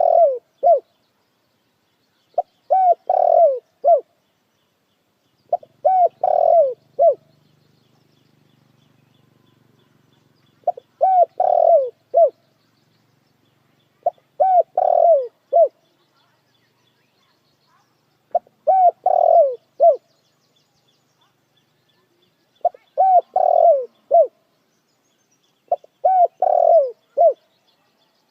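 Spotted dove (dekukur) cooing: a phrase of several short coos with a longer, louder note in the middle, repeated about every three to four seconds.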